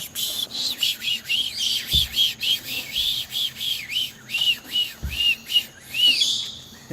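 Parrot whispering a rapid string of "psh, psh, psh" sounds, about three to four a second. Each is a short hiss with a whistly tone that rises and falls.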